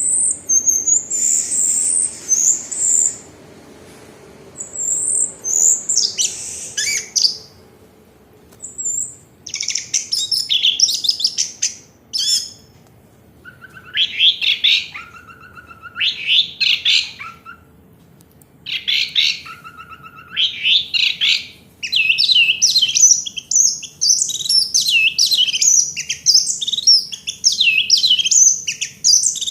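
Orange-headed thrush (red anis, 'anis merah') singing: bouts of quick, varied high whistled phrases broken by short pauses, running almost without a break in the last third.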